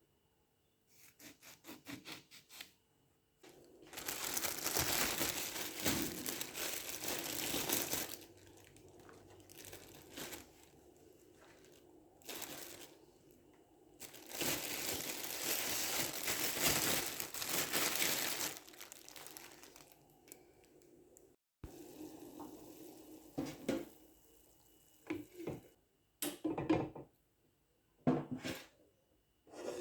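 Kitchen drink-making sounds: two long stretches of steady rushing noise about four seconds each, with short handling knocks and clatters between them and more of them near the end.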